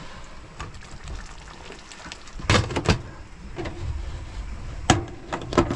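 Galley cooking clatter: a few sharp knocks and clacks of cookware and cupboard doors, two close together about two and a half seconds in and a cluster near the end, over a low steady rumble.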